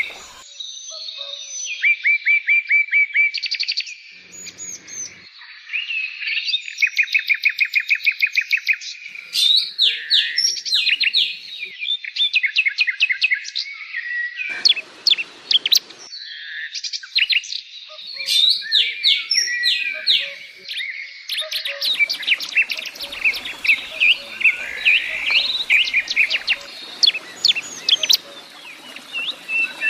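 Songbirds singing: fast runs of sharp, high chirps and rapid trills, one phrase after another with short pauses between.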